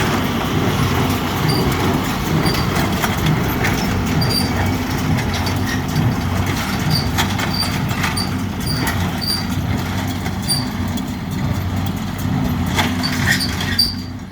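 John Deere 4440 tractor's six-cylinder diesel engine running steadily under load while pulling a John Deere 336 small square baler at work, with irregular sharp clicks and knocks from the baler. The sound cuts off suddenly near the end.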